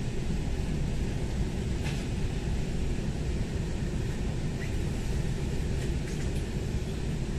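Steady low rumble of a Taiwan Railway commuter train heard inside the carriage as it runs, with a few faint light clicks.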